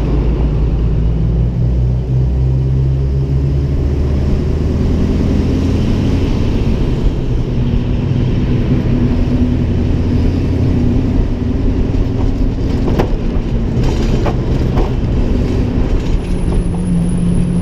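Ford Mustang's engine and exhaust droning at a steady cruise, with road and wind noise on a microphone mounted outside the car.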